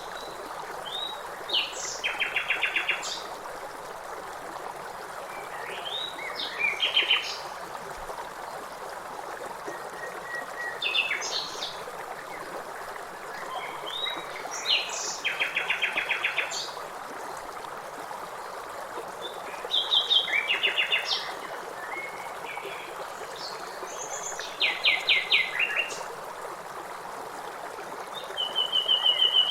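A songbird repeating one song phrase about every four to five seconds, each a few rising notes ending in a fast trill, over a steady rush of river water.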